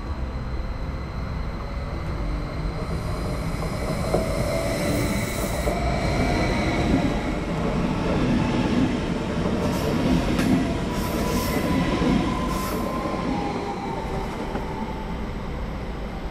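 Double-deck electric multiple unit rolling through on curved track: the running noise builds to a peak about ten seconds in, with wheel squeal and a few sharp clicks, then eases off.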